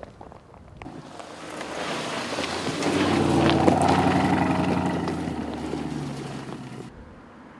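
Aston Martin DBX's twin-turbocharged 4-litre V8 running at a steady engine speed, with tyre noise. The sound swells to a peak around the middle and then fades, like the SUV driving past.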